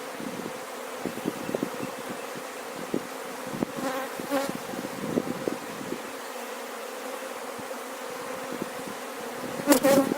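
Honeybees from an open hive buzzing in a steady hum. Light scraping and rustling come in the first half, and there is a short louder clatter near the end.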